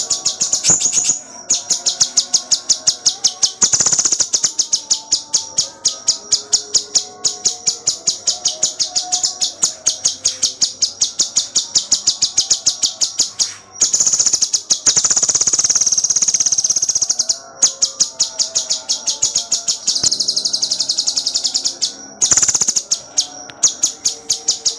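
Cucak cungkok songbird singing in rapid, tightly packed runs of sharp high notes, many a second, broken by brief pauses, with one long unbroken trill a little past the middle. These are the dense 'tembakan rapet' bursts that keepers value in a tutor song.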